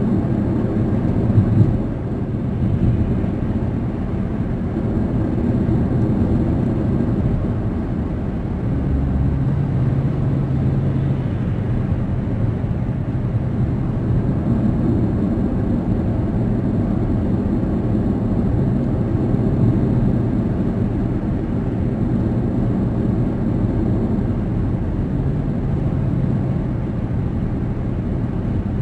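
Steady road noise from a moving car: tyre roar and engine drone heard from the cabin, with a brief bump about one and a half seconds in.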